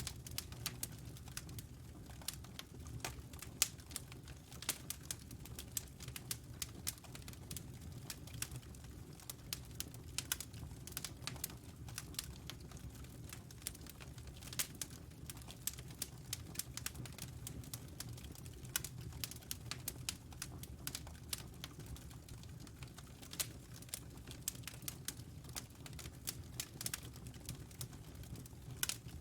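Wood fire burning in a fireplace: a steady low rumble under frequent, irregular sharp crackles and pops.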